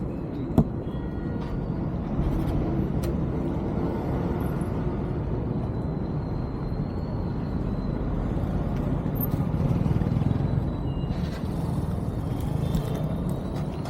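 Steady engine and road noise of a vehicle travelling along a highway, swelling a little at times, with a single sharp click about half a second in.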